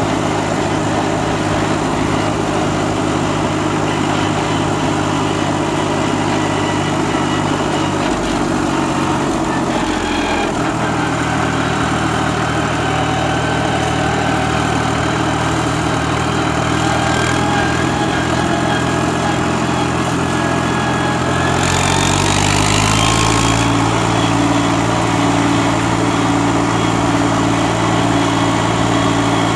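Diesel engine of a Holder A55 articulated tractor running steadily under a front-loader load. Its note shifts about a third of the way through, and near the three-quarter mark it rises in speed with a brief hiss, then keeps running faster.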